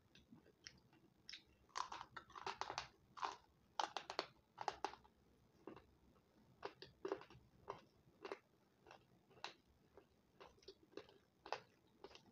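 Close-up crunching as hard white chalk-like sticks are bitten and chewed. A dense run of crisp crunches comes in the first half, then single crunches about once a second.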